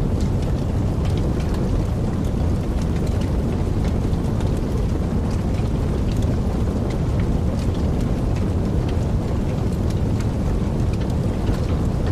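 Wood fire burning in a fireplace: a steady low rumble of flames with frequent small, irregular crackles and snaps.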